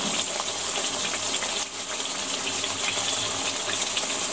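Oily spice masala with fried potatoes sizzling steadily in a pan, with a few light scrapes and ticks of a spatula stirring against the pan.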